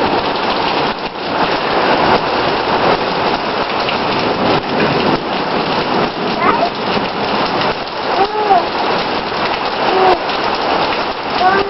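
Steady heavy rain pattering on a surface. A few short pitched sounds, each rising then falling, come through it from about the middle on.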